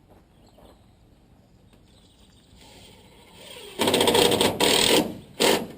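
Cordless power driver driving a screw: a softer run-up, then three short loud bursts of the motor, the last one near the end.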